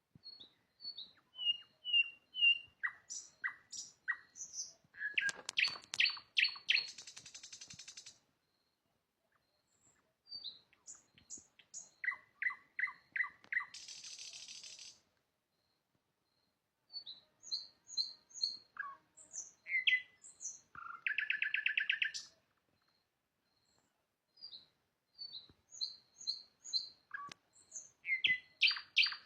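Nightingale singing: four song phrases with pauses of about two seconds between them, each a run of repeated clear whistled notes building to a fast, rattling trill.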